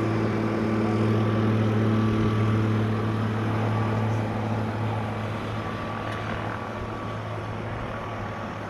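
Propeller aircraft engine droning steadily at an even pitch, slowly fading away.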